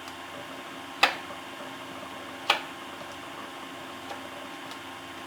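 Two sharp clicks about a second and a half apart, with a few much fainter ticks after them, over a steady low hum.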